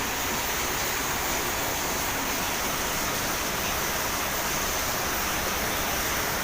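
Steady, even hiss-like rushing noise with no separate events.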